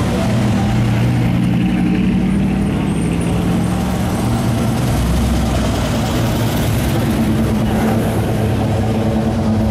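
Car engines running at low speed in a slow procession: a steady low rumble whose pitch shifts a little.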